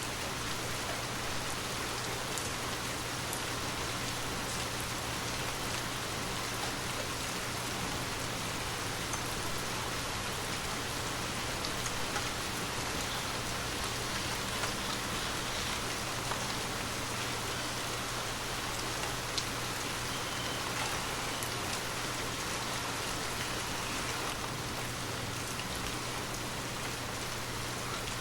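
Gentle rain falling steadily, with scattered drips ticking through it and one sharper drip about two-thirds of the way in. A steady low hum sits underneath.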